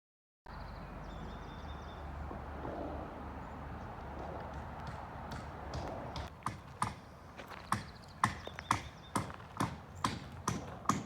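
A steady rushing noise, then from about six seconds in, crisp footsteps at walking pace, about two a second.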